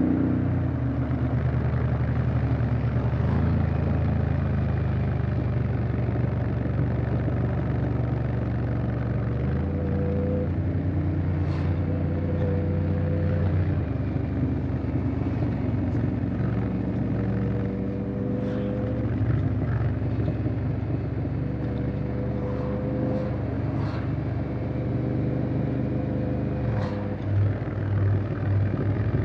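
Honda X-ADV 750 parallel-twin engine running while the scooter is ridden along at a steady pace. The engine note holds steady and steps to a new pitch several times across the stretch.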